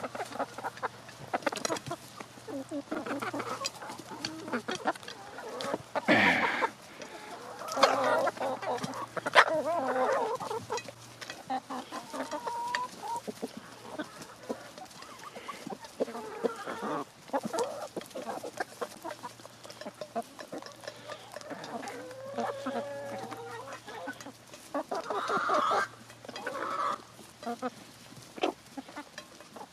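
Backyard chickens clucking and giving short calls while feeding, with a louder squawk about six seconds in and frequent sharp taps of beaks pecking at the food.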